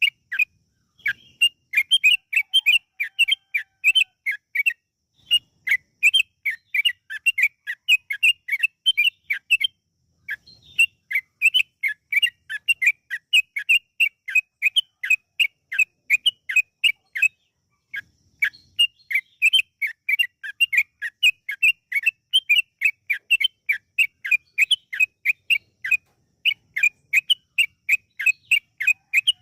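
Yellow-vented bulbul (trucukan) singing long runs of quick, sharp, chattering notes, about four a second, broken by brief pauses.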